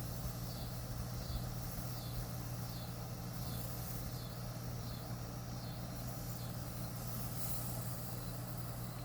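Outdoor background sound: a steady low hum with a high-pitched chirp repeating about once a second.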